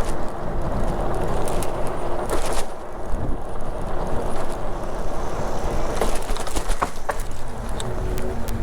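Steady wind rumble on the microphone and rolling noise from a bicycle being ridden, with a few light clicks and rattles from the bike.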